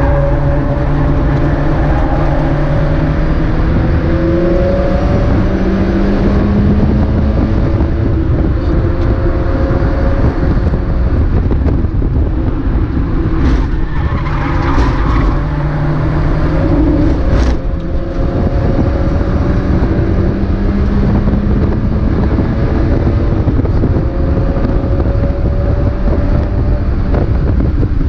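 Mazda MX-5 race car's four-cylinder engine heard from on board at racing speed, rising in pitch again and again and dropping back at each gear change, over a steady bed of road and wind noise. A few sharp clicks come around the middle.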